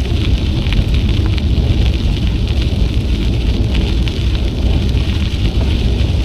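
Wind buffeting an action camera's microphone during a bicycle ride: a steady low rumble, with light crackling ticks from the ride over the trail above it.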